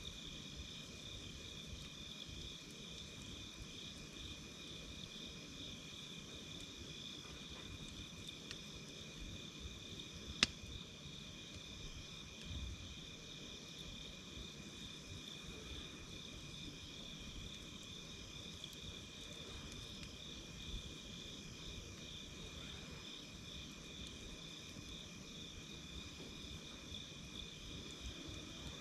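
Night insects chirping in steady, pulsing trills, over the faint crackle of a wood campfire. There is one sharp pop from the fire about ten seconds in.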